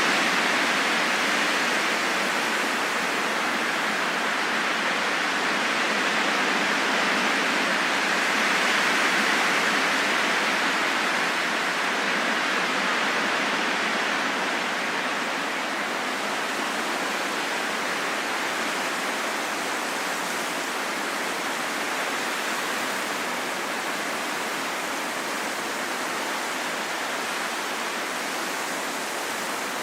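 Steady wind, a broad even rushing hiss with no whistling tones, swelling slightly about a third of the way in and easing a little afterwards.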